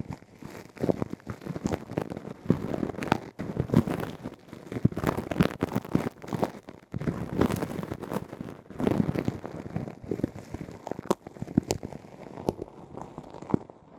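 ASMR ear-cleaning sounds close on the microphone: an irregular run of crackling and scratching, with sharp clicks scattered through.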